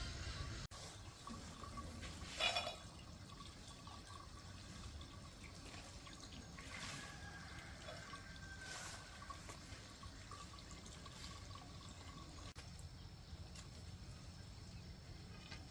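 Water trickling and dripping, with one brief louder sound about two and a half seconds in.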